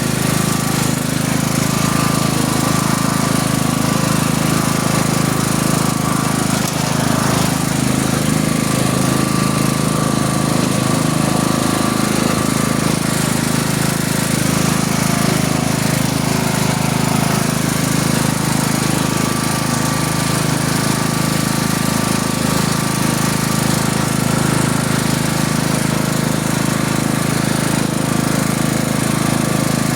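Tractor engine running steadily with a rough, rapid pulsing, heard from the machine while it is driven.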